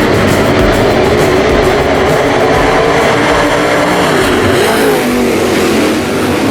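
Dirt late model race car V8 engines running hard on track, the engine note rising and falling.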